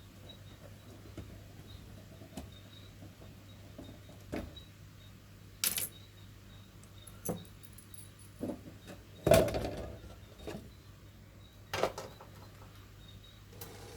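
Scattered small metallic clinks and taps, spaced a second or two apart, as small metal clock parts and tools are handled. The loudest clink comes about nine seconds in and rings briefly.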